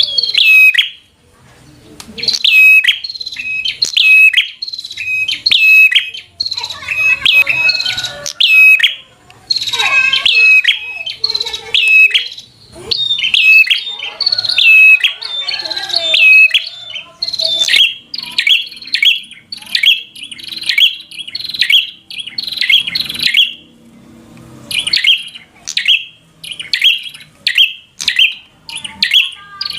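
Prinia (prenjak) singing in loud, repeated sharp high-pitched notes, each sweeping downward. Past the middle the song turns into a faster run of rapid chips.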